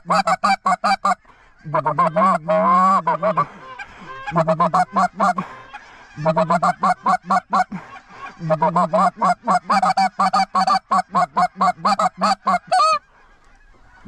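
Goose calling at close range: rapid strings of clucks, several a second, in bursts with short breaks, with a drawn-out moan a couple of seconds in and a sliding honk near the end. The pattern is that of hunters' goose calls working an incoming flock.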